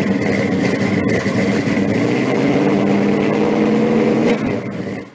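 A car engine running steadily, with a steady high tone above it, fading out quickly near the end.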